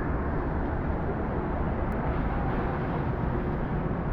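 Steady beach ambience: an even outdoor noise with most of its weight low down and no distinct events.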